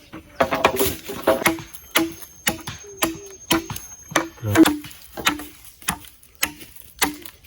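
Repeated blows on wood, about two a second, each a sharp knock with a short low ring after it, as a tool works poles while a shelter is being built.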